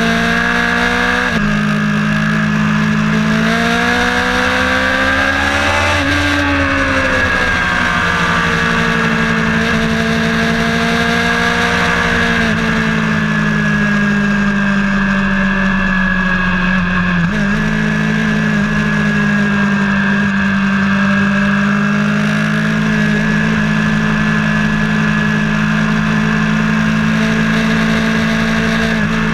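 Vehicle engine running under load on a track lap, heard onboard as a steady drone. Its pitch drops suddenly about a second in and again near seventeen seconds in, rises for a few seconds, then falls away.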